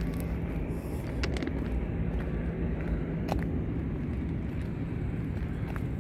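Road traffic on a busy city street: a steady low rumble of passing cars, with a couple of faint clicks.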